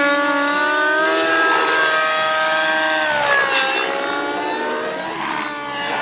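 Radio-controlled model helicopter in flight: a high, pitched motor-and-rotor whine that sags in pitch and climbs back a few times, about 3.5 s in and again near the end, as the load and speed change.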